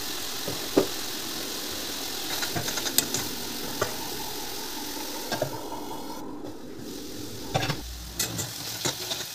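Onion and tomato masala sizzling steadily in a kadhai, with scattered clicks and scrapes of a metal spatula against the pan.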